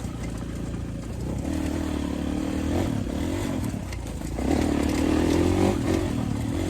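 Kawasaki KX450 single-cylinder four-stroke motocross engine running under throttle, its pitch rising and falling. It gets louder and higher from about two-thirds of the way in.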